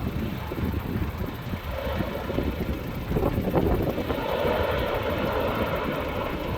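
Airbus A350-900's Rolls-Royce Trent XWB jet engines running as the airliner lands, a steady engine tone coming in about two seconds in over a low rumble. Wind buffets the microphone.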